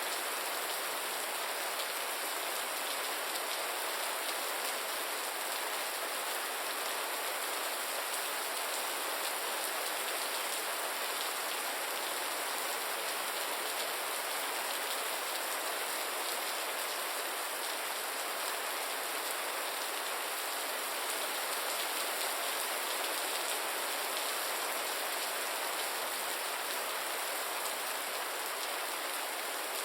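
Steady rain falling on a surface: a constant even hiss of drops with no change in strength.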